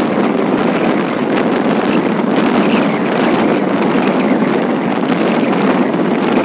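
Steady rushing running noise of a moving electric commuter train, heard from inside the carriage, with wind on the microphone.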